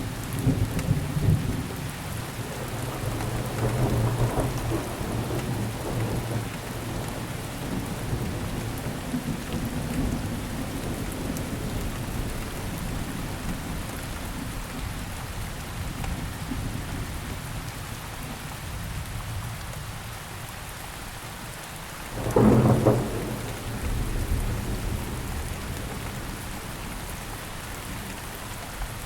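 Steady rain pattering on surfaces during a thunderstorm. A rumble of thunder rolls through the first few seconds, and a sharp thunderclap comes about two-thirds of the way through, fading into a shorter rumble.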